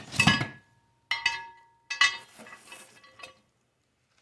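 Glass microwave turntable plate clinking as it is handled: about four knocks within three seconds, two of them ringing briefly with a clear tone.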